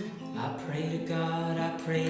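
Acoustic song: guitar accompaniment with a voice beginning to sing about half a second in, holding long notes.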